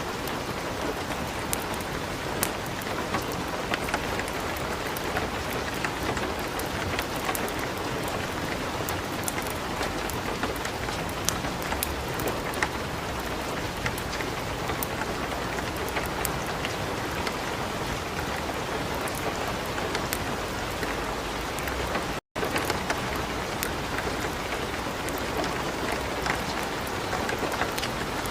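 Light rain falling steadily, mixed with the crackle and small sharp pops of a wood fire burning in a fireplace. The sound drops out for an instant about three quarters of the way through.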